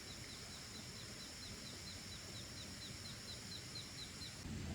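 A bird repeating a short, high, downward-sliding chirp about five times a second, over faint steady high-pitched tones; the chirping stops abruptly near the end.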